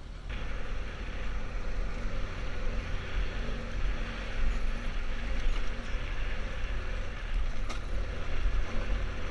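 Motorcycle riding: the adventure bike's engine running steadily under a deep, unsteady rumble of wind on the microphone.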